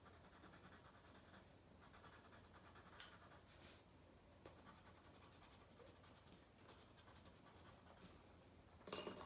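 Yellow colored pencil scribbling on paper in quick back-and-forth strokes, faint, with a light knock or two near the end.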